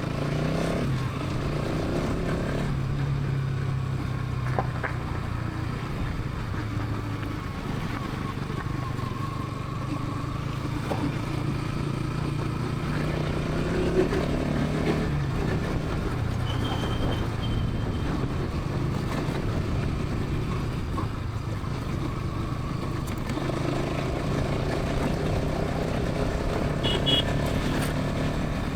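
Bajaj Pulsar NS 200's single-cylinder engine and exhaust running on the move at highway speed, its note shifting up and down a few times with throttle and gear changes.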